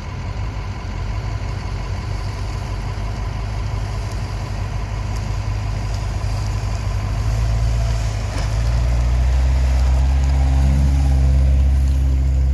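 Off-road vehicle's engine running steadily at low revs while driving. About eight seconds in its note changes and it gets louder.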